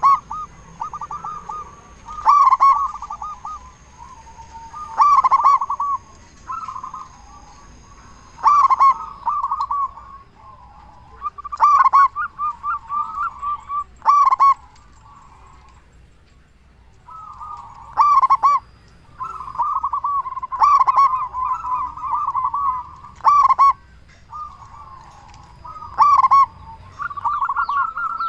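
Zebra doves (perkutut) cooing: a loud, full-voiced coo phrase every two to four seconds, with softer, fast rolling coos in between. A faint, steady high whine runs under the first third.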